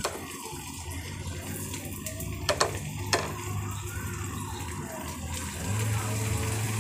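Chicken salami slices sizzling in butter in a non-stick frying pan, a steady hiss, with two sharp clicks a little before halfway.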